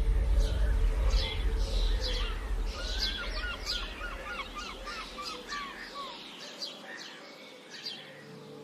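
Several small birds singing and chirping, with one bird repeating a short note about three times a second in the middle. A low rumble under the birdsong fades out about six seconds in.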